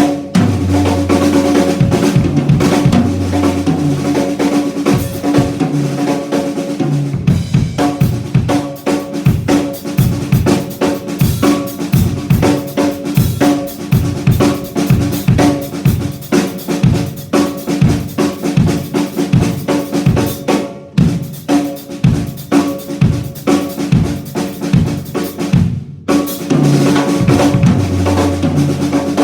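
Drum kit played continuously, with bass drum, snare and hi-hat hits, picked up through a Yamaha EAD10 drum microphone-and-module unit. The playing breaks off briefly three times, once around a quarter of the way in and twice near the end.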